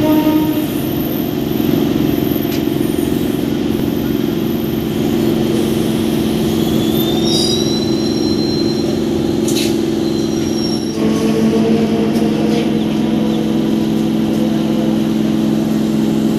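Kolkata suburban EMU local train running into a station, heard from its open doorway: a steady rumble of wheels on the track, with a high squeal rising about seven seconds in and a change in the running note about eleven seconds in.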